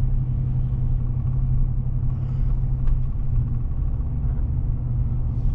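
Steady low rumble of a Chevy Silverado pickup heard from inside the cab, engine and road noise running on with no change.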